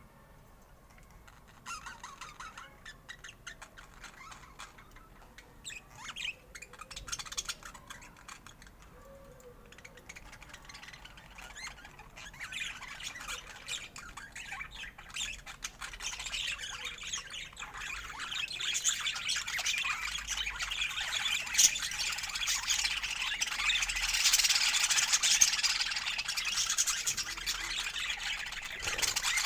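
Budgerigars chirping and chattering, scattered at first, then building from about halfway through into dense, continuous chatter.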